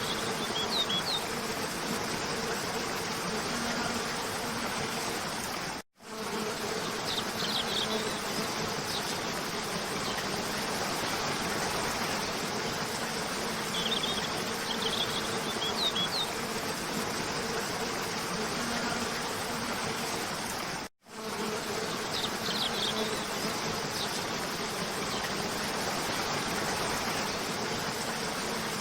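Steady rush of cascading waterfall water with a faint low hum underneath, and short bursts of high bird chirps every few seconds. The whole sound cuts out abruptly for a split second twice, about 15 seconds apart, where the recording loops.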